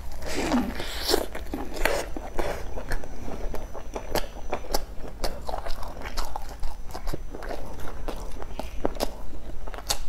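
Close-miked biting into a stuffed flatbread sandwich at the start, followed by steady chewing with many short sharp mouth clicks at an irregular pace.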